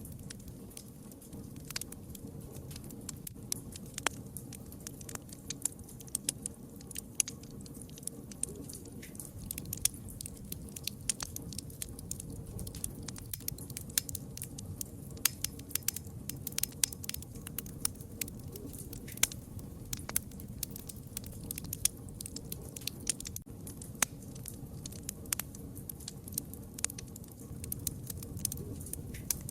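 Campfire burning: irregular sharp crackles and pops over a low steady rumble.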